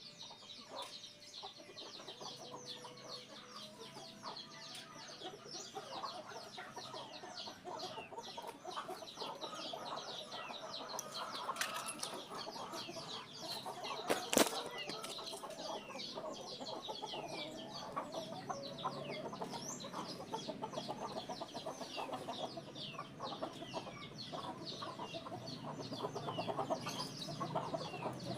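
Birds chirping and clucking continuously, many short falling chirps overlapping like a yard of chickens, with one sharp click about halfway through.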